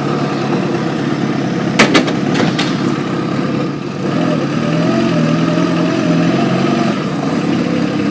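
Motorcycle engine idling steadily at low speed while the bike is manoeuvred, with two sharp clicks about two seconds in.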